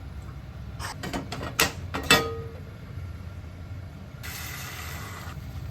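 Household handling noises: a run of clicks and knocks, the two loudest about a second and a half and two seconds in, the last with a short ring, then about a second of hissing.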